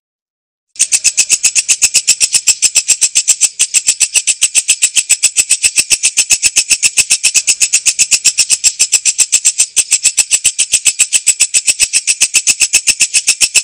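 Walang kecek katydid stridulating: a loud, high-pitched, rapid and very even pulsed chirping, about six pulses a second. It starts after a short silence less than a second in.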